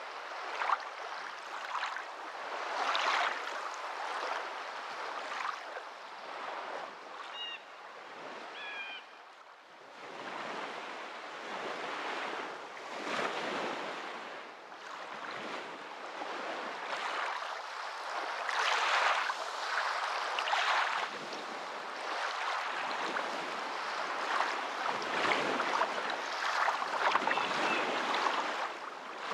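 Waves washing in, the water noise swelling and easing every few seconds. A few short chirps sound about seven to nine seconds in.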